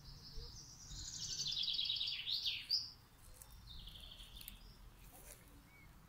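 A songbird singing: a fast trilled phrase of rapidly repeated high notes lasting nearly three seconds and ending in a quick down-and-up flourish, then a shorter, quieter trill about a second later.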